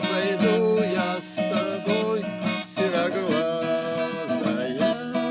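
Music: a strummed acoustic guitar with a pitched melody line above it.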